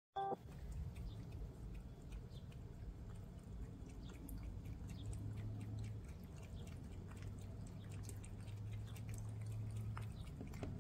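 A cat lapping water, heard as many small quick clicks, over the low steady hum of the eufy pet fountain's pump. A short pitched tone sounds right at the start.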